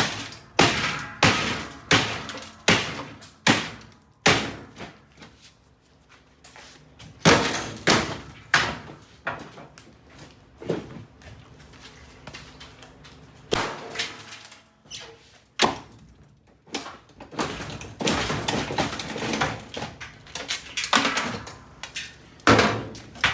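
A crowbar hitting and prying at a top-load washing machine: a long series of hard, sharp blows, about two a second at first, sparser and quieter through the middle, then a dense run of strikes near the end.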